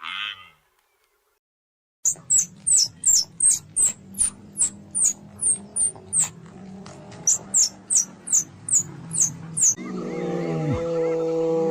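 Recorded animal calls: a run of sharp, high-pitched chirps falling in pitch, about two a second, over a low steady hum. A lower, drawn-out call follows near the end.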